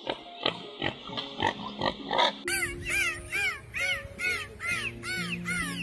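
Domestic pigs grunting in quick short snorts over background music, then about halfway through a bottlenose dolphin's rapid run of chirping whistles, about three a second.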